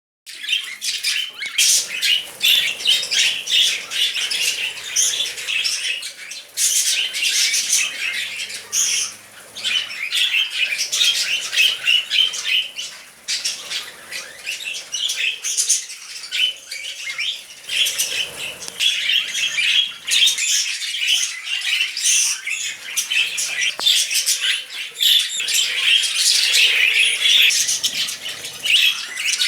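Budgerigars chattering: a continuous, busy stream of short high chirps, squawks and warbles.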